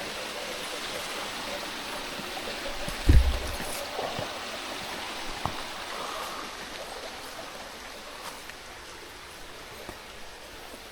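Steady rush of running water from a jungle stream, slowly fading, with one loud low thump about three seconds in and a few faint clicks after it.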